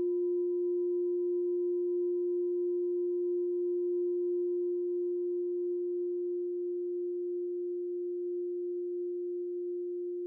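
Meditation bell ringing on after a strike: one pure, steady low tone with a faint higher overtone, slowly fading, the overtone dying away near the end.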